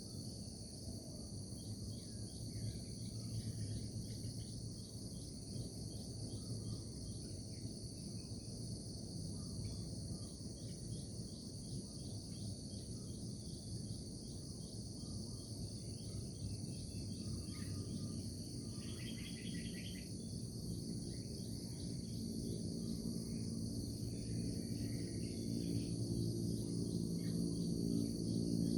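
Steady high-pitched insect chorus with a few scattered bird chirps over a low rumble. A low hum with several pitches comes in and grows louder over the last few seconds.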